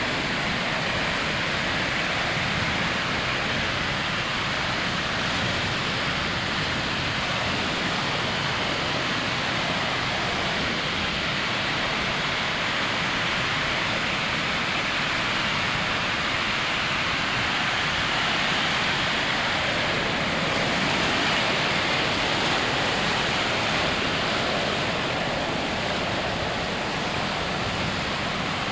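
Ocean surf washing onto a sandy beach: a continuous, even rush of breaking waves that swells a little past halfway.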